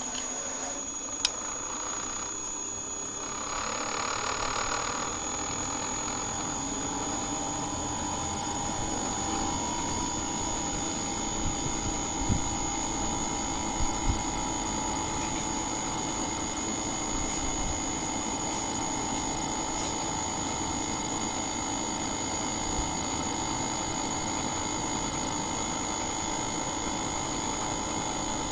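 A machine clicks about a second in, then builds over a few seconds to a steady humming run with a constant high whine. A few faint knocks come near the middle.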